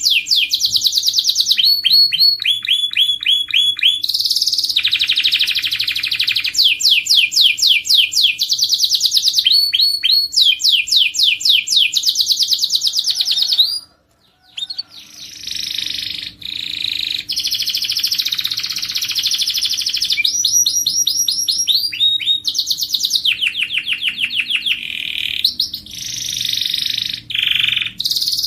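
Domestic canary singing: rapid trills of repeated high notes, switching to a new trill every second or two, with a brief pause about halfway through.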